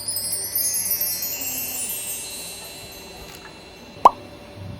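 A cascade of high, bright chimes sweeps downward in pitch and fades over about two seconds, a sparkle effect like a mark tree. About four seconds in comes a short, loud pop that rises in pitch.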